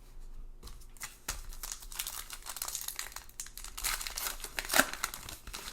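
A baseball card pack wrapper being torn open and crinkled: a run of crackling rustles that builds, with the loudest crackle near the end.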